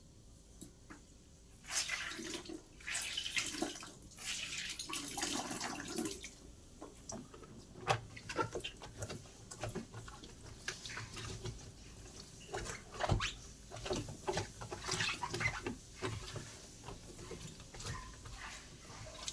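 Water splashing and pouring while a twin-tub washing machine is being cleaned, with irregular knocks and clatter of parts being handled; it starts about two seconds in.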